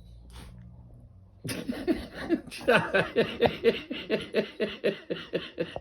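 A person laughing hard in a long run of rapid, pitched 'ha' pulses, about five or six a second, starting about one and a half seconds in.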